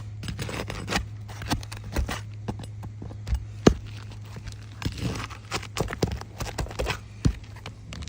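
Irregular sharp taps and scrapes of a hand tool working nails loose under a 3-tab asphalt shingle, over a steady low hum.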